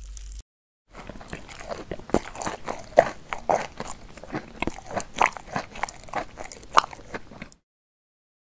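Close-up chewing and crunching of food, irregular crunchy bites for several seconds with two louder crunches, about three and seven seconds in; it stops abruptly near the end.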